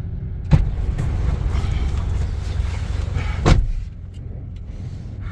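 Strong wind buffeting a parked car, heard from inside as a steady low rumble. About half a second in, a thump, then a louder rush of wind noise until a second thump about three and a half seconds in, after which it drops back to the muffled rumble.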